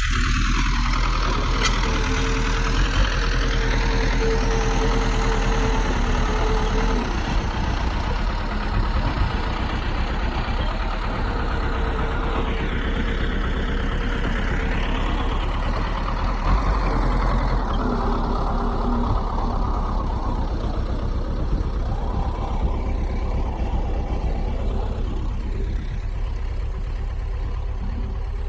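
Bulldozer's heavy diesel engine running continuously, its pitch rising and falling a few times as the load and throttle change, easing off slightly toward the end.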